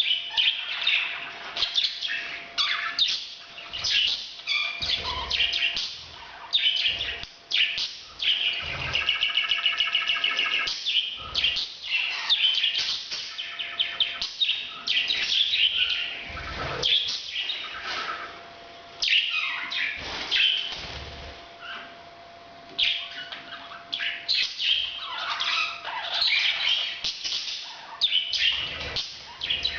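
Parrots chirping and chattering in a rapid stream of high calls, with one longer buzzy call about nine seconds in: breeding-season calling.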